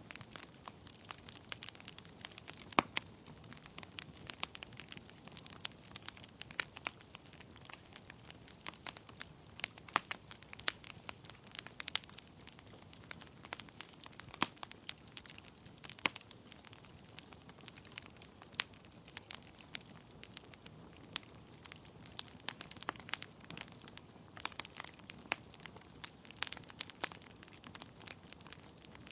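Wood fire burning in a fireplace, logs crackling and popping with many irregular sharp snaps over a low steady rush of flame.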